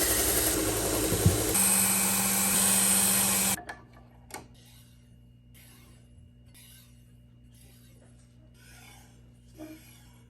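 Powered knife-sharpening machine grinding a steel blade edge, a loud rasping hiss with a steady motor hum, which stops abruptly about a third of the way in. After it, faint short scraping strokes repeat about every 0.7 seconds.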